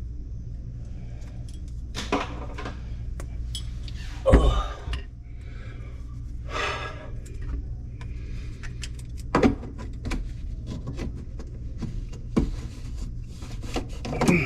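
Scattered clicks, clatters and knocks of plumbing parts and tools being handled under a sink, with one heavier thump about four seconds in, over a steady low hum.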